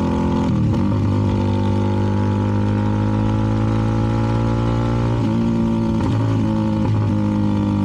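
CFMoto 300NK's single-cylinder engine through a KO aftermarket exhaust, running at steady riding revs. Its pitch drops a little about half a second in and changes again a few times between about five and seven seconds in, as the throttle is eased and opened.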